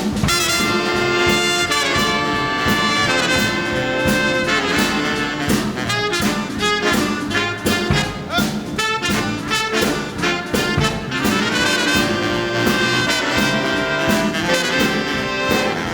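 Big band playing an instrumental boogie-woogie swing intro, the brass section (trumpets, trombones) and saxophones carrying the lines over a steady drum beat.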